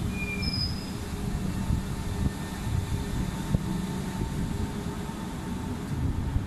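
Kawasaki C151 metro train pulling out of the platform and running away down the track: a steady low rumble with a faint steady whine through most of it and a single short knock about halfway through.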